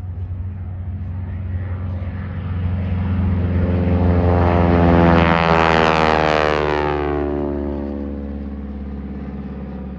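Stearman biplane's radial engine and propeller making a low pass. It grows louder to a peak about five seconds in, then drops in pitch and fades as it goes by.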